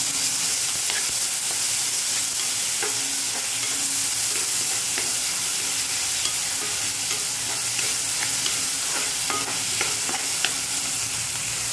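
Chopped tomato, onion and green chillies sizzling in hot oil in a metal pan, as a metal spoon stirs and scrapes them. The spoon gives scattered light clicks over the steady frying hiss.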